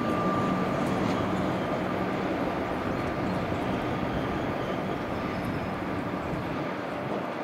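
Melbourne suburban electric train passing on the rail corridor: a steady running noise with a low hum and a thin whine above it, slowly fading as it moves away.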